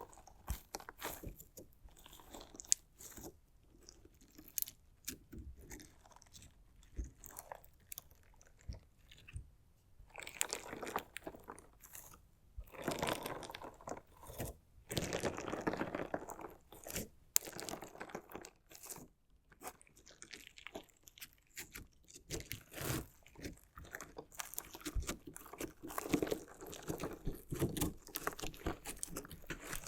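Crunchy slime jelly and decorative stones being cut, pressed and squeezed: irregular crackling and crunching with scattered clicks, thickest through the middle stretch and again near the end.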